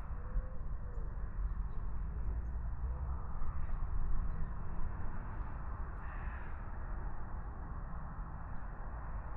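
Outdoor walk ambience: a steady low rumble, with a few faint bird calls.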